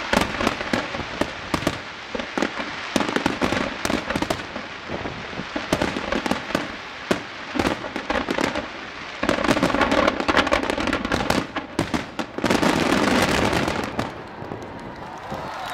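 Aerial fireworks going off in a display: a rapid string of sharp bangs and crackles, with two longer stretches of dense crackling in the second half.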